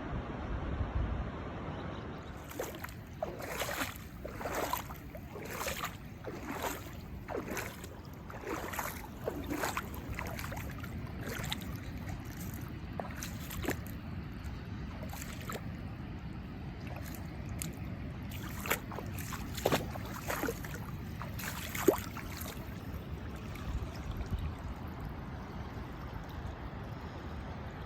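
Steady rushing of falling water and wind, with irregular knocks and taps over it for much of the time and one sharp click about three quarters of the way through.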